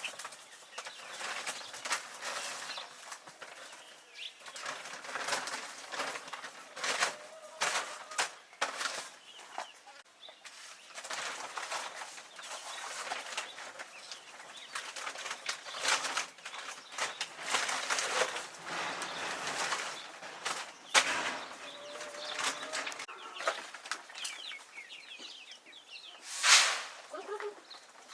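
A flock of young chicks peeping, with frequent wing flaps and short rustling knocks while they feed on wheat. There is a louder rustling burst near the end.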